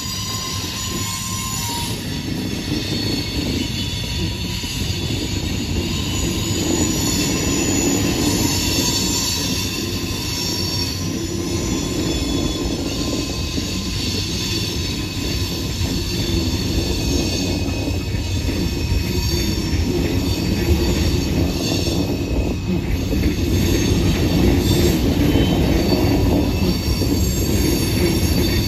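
CSX freight train rolling past with its steel wheels squealing in several high, steady tones over a continuous rumble and clatter of the cars.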